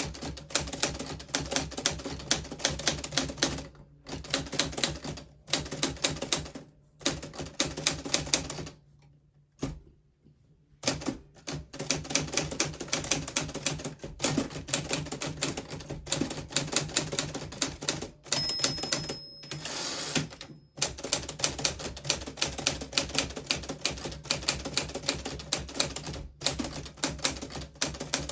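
1940s Smith Corona Silent manual typewriter being typed on in quick runs of key strikes, with short pauses between bursts and a longer break about nine seconds in. A brief ringing tone sounds about eighteen seconds in.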